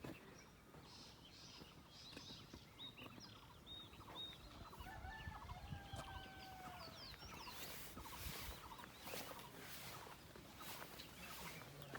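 Faint bird calls: a few short high chirps in the first few seconds, then some longer, lower calls around the middle.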